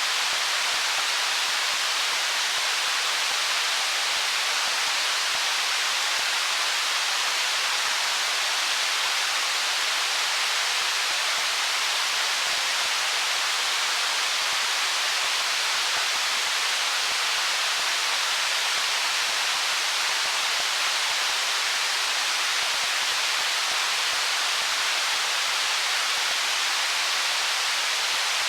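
Flowing stream water rushing over stones: a steady, even hiss that does not change, mostly high with little low rumble.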